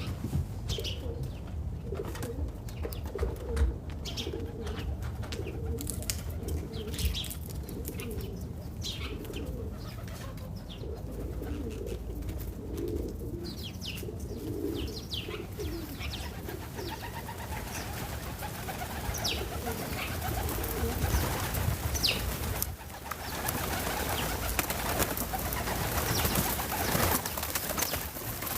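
Doves cooing in repeated low phrases, with scattered short chirps from small birds. From about halfway a rushing noise builds and covers them, dipping briefly about three-quarters in.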